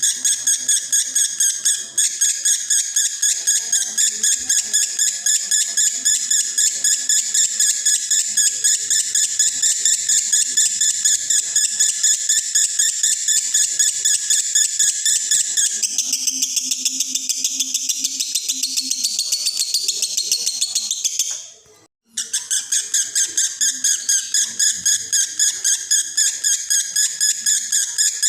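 Male lovebird singing in the 'konslet' style, a long unbroken stream of rapid high chirps that breaks off briefly about three-quarters of the way through and then starts again. The male is in breeding condition.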